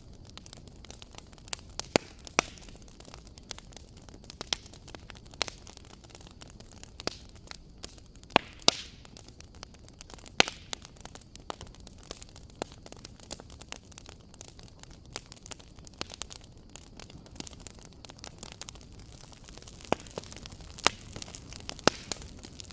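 Wood fire crackling: irregular sharp pops and snaps, several louder ones, over a steady low hiss.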